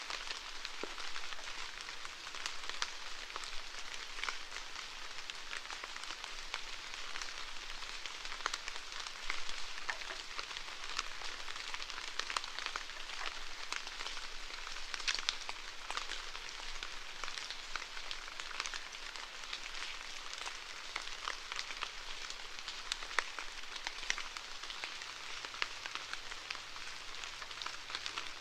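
Steady rainfall: an even hiss with many sharp, separate drop taps scattered through it.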